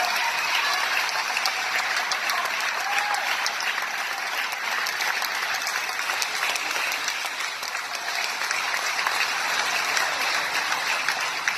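Audience applauding: a steady wash of clapping that eases off slightly near the end.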